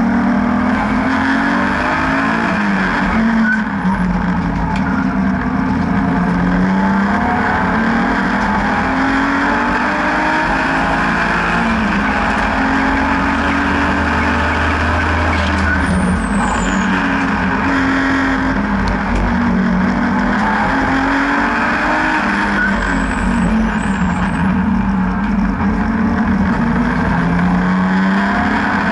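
BMW N52B30 3.0-litre naturally aspirated straight-six in an E36 race car at full load, its pitch repeatedly rising as it revs up and dropping at gear changes and braking.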